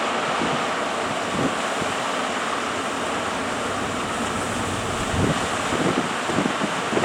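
Steady roar of surf breaking at a river-mouth estuary, with strong wind buffeting the microphone; the gusts hit harder about five seconds in.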